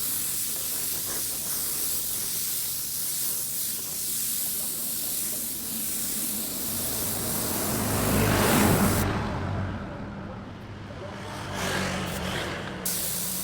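Steady hiss of paint being sprayed, the sprayer cutting off for a few seconds near the end before starting again. A louder low rumble swells just before the hiss stops.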